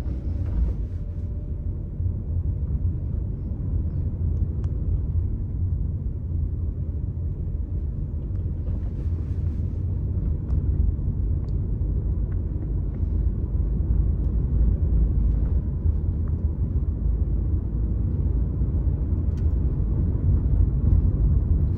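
Steady low rumble of a car driving slowly, heard from inside the cabin. It grows a little louder around the middle.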